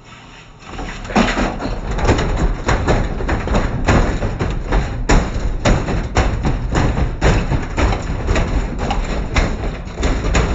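Samsung washing machine banging hard, its drum thrown badly off balance by a 6-litre water bottle inside: a rapid, irregular run of heavy thumps and knocks over a low rumble, turning loud less than a second in.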